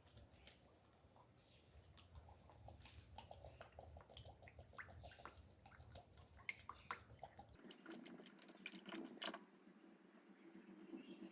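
Faint dripping and trickling of liquid mixed with scattered small clicks and knocks, barely above room tone.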